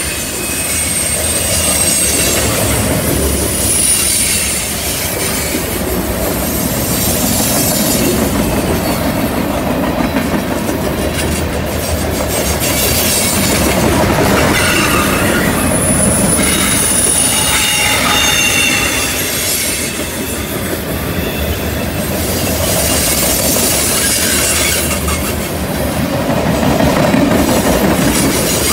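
Freight cars rolling past on a curve: a steady rumble and clatter of steel wheels on rail, with high-pitched wheel squeal that comes and goes several times as the flanges grind through the curve.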